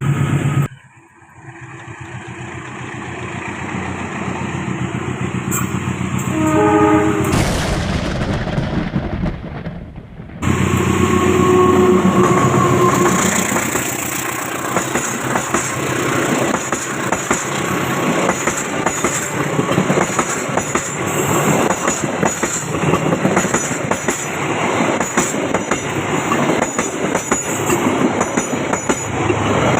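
A train approaching and sounding its horn, then passing close by for a long stretch, its wheels clattering rhythmically over the rail joints.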